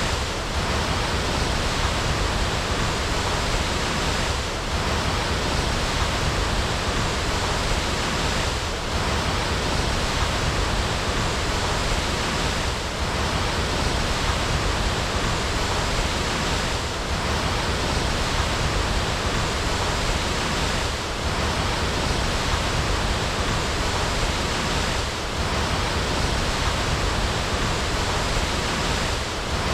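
Waterfall: water pouring and rushing in a steady, even roar, with a slight dip about every four seconds.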